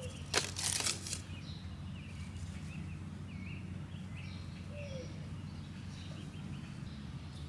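Small birds chirping in short repeated calls over a steady low hum, with a brief rustle in the first second.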